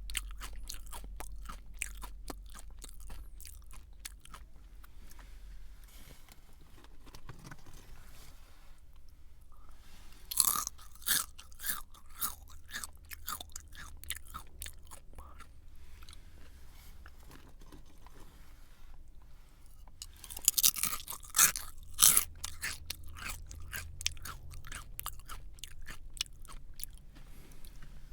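A person chewing a crunchy snack, with dense crisp crunching throughout and two louder bursts of biting, about ten seconds in and again around twenty-one seconds.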